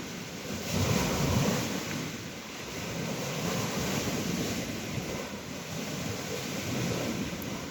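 Waves on a reservoir washing onto the shore, swelling and easing, with the loudest wash about a second in. Wind buffets the microphone.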